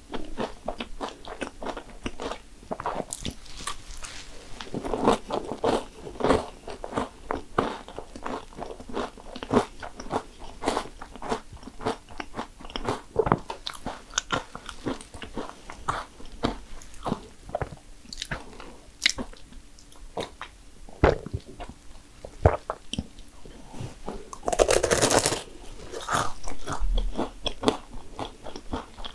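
Close-miked biting, crunching and chewing of crisp fried cannoli shells, with many irregular sharp crunches and a louder, harsher burst of crunching about twenty-five seconds in.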